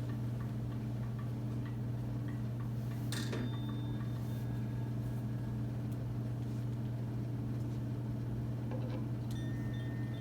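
A steady low drone hums throughout, with a few faint clicks. Near the end, faint high ringing tones begin.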